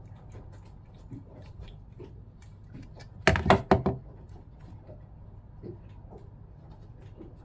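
Small clicks and knocks of pump parts and tools being handled during disassembly, with a brief cluster of several loud knocks a little over three seconds in.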